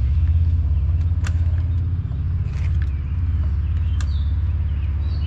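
BMW 318ti's four-cylinder engine running with a steady low rumble, with a couple of light clicks over it.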